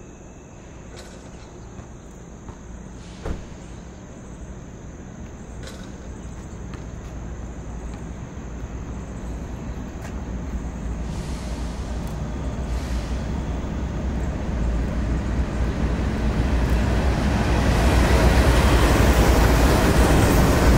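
Norfolk Southern diesel-hauled freight train approaching on the main line, its low engine rumble and rail noise growing steadily louder until the lead locomotives are close by near the end. A single sharp click about three seconds in.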